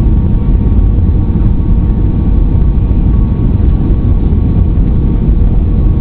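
Steady low rumble of an Aer Lingus Airbus A320's engines and airflow heard inside the cabin during the arrival into Dublin, with faint steady tones running through it.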